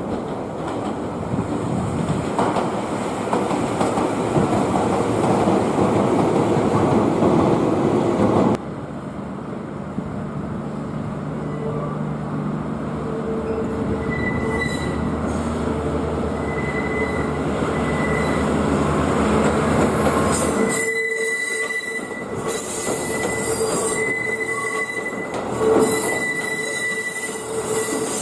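Kiya 97 series diesel rail-transport train running by with a heavy rumble that cuts off abruptly about a third of the way in. After that it runs quieter, with steady high-pitched wheel squeal. About two-thirds in, the low rumble drops away and the squeal carries on.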